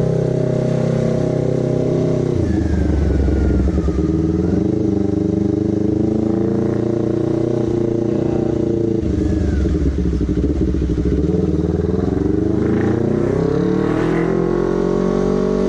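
Honda CBR250RR's parallel-twin engine and exhaust running while riding. The pitch drops about two seconds in, holds fairly steady, then rises steadily near the end as the bike accelerates.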